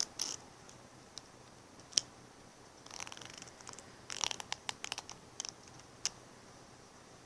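Light handling noises close to the microphone: scattered soft clicks and crackles, with a quick run of small ticks about four seconds in.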